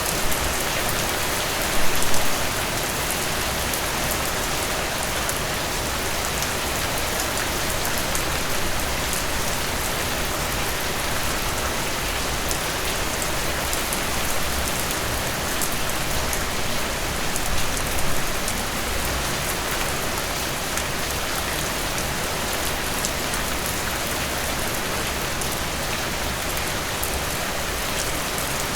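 Heavy rain falling steadily, a dense even hiss of drops on surfaces, with a couple of brief louder spatters about two seconds in and again a little past the middle.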